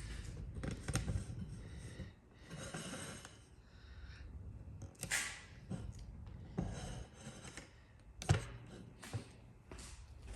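Scattered clicks and knocks of hand-tool handling, with a few short hissing sounds and one sharp knock about eight seconds in.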